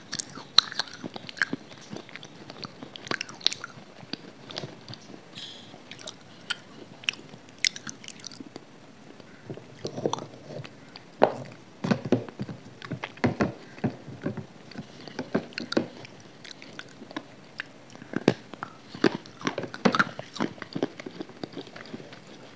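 A person biting and chewing dry, brittle grey chunks right at a close microphone: sharp crunches and crumbly chewing. The crunches come in irregular clusters, the loudest around the middle and again near the end.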